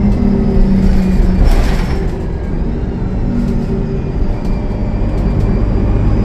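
A 2013 Gillig Low Floor transit bus's Cummins ISL9 diesel engine running under way, on a bus with a turbo leak. Its note eases off about two seconds in and builds again near the end, with a brief hiss about a second and a half in.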